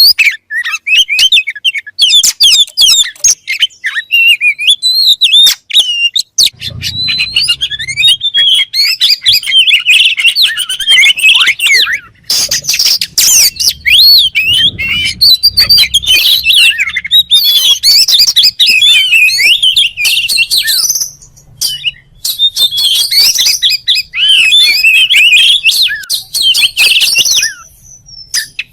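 A songbird singing loudly and almost without a break: rapid, varied chirps, trills and whistles that sweep up and down, with a few brief pauses.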